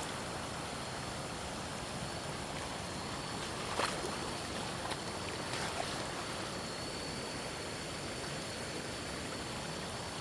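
Steady rush of running water. A few light knocks come around the middle, and a faint, steady high tone runs through the second half.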